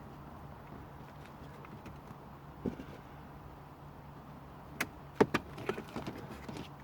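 Plastic dashboard trim being squeezed and worked loose by hand: one soft knock about a third of the way in, then a run of sharp plastic clicks and taps in the last two seconds, over a steady low hum.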